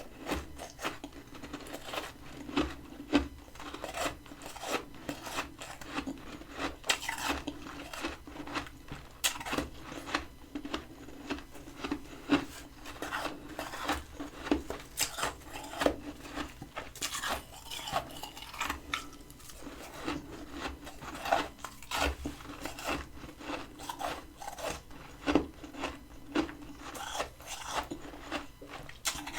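Freezer frost being scraped and crunched as it is bitten and chewed, a dense, irregular run of crisp crunches with rubbing and scraping between them.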